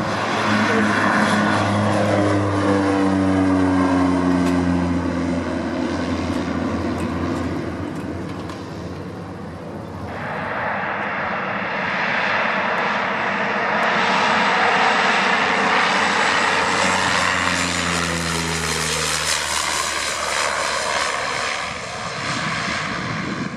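Cessna 208 Grand Caravan's PT6A turboprop going past twice. Each time the propeller and engine tone swells, then drops in pitch as the aircraft passes. The sound changes abruptly about ten seconds in.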